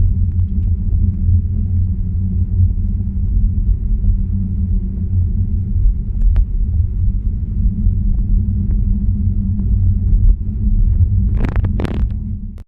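Steady low rumble of the Tesla Model 3 travelling over a snow-covered road. Near the end come two short, loud rustling noises about half a second apart, and then the sound cuts off abruptly.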